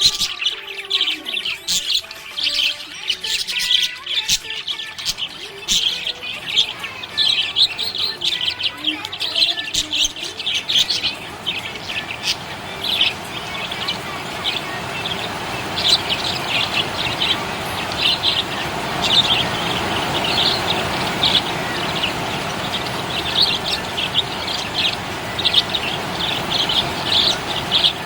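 Budgies chirping in a fast, busy stream of short high chirps. A steady rushing noise underneath grows louder partway through.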